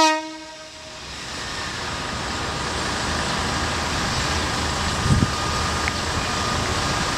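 Isumi 200' type diesel railcar running, its rumble growing steadily louder, with a low thump about five seconds in. A loud pitched tone at the very start fades out within the first second.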